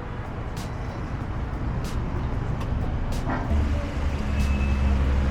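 Car engine running at low speed, with a steady low hum that comes in about three and a half seconds in and continues.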